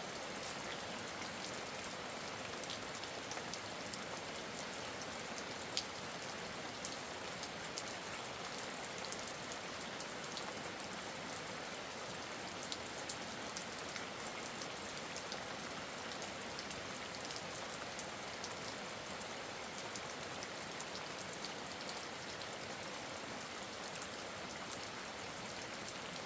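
Steady rain falling, an even hiss dotted with many scattered sharp ticks of single drops.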